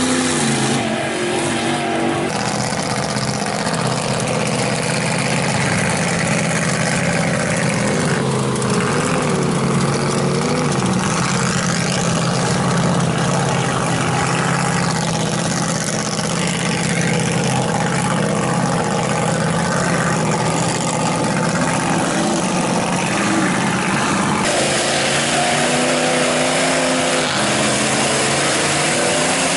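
Lifted mud truck engines revving hard, their pitch rising and falling, over a dense rush of noise. The sound changes abruptly about two seconds in and again near the end.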